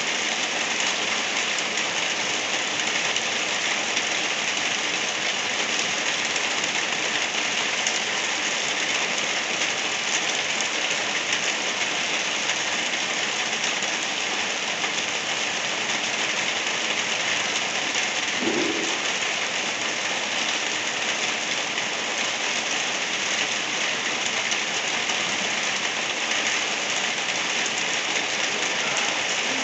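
Light rain falling steadily, an even hiss with no breaks.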